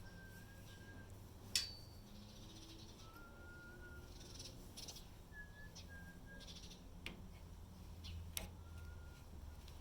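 Soft human whistling: four short, faint, steady whistled notes with pauses between them, plus a couple of sharp clicks, the loudest about a second and a half in and another near the end.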